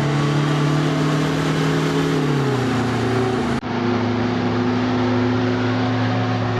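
Airliner jet engines at take-off power, a loud steady drone with a pitched hum that drops in pitch about two and a half seconds in; the sound cuts abruptly just past halfway to a steady, lower drone.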